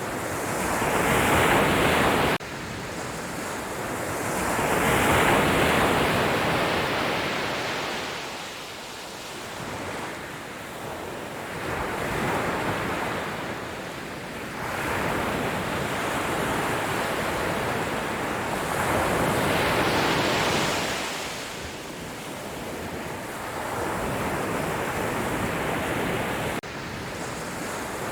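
Sea waves breaking on the shore: a steady rush of surf that swells and falls back every several seconds, with a few louder breaks. The level drops abruptly twice, near the start and near the end.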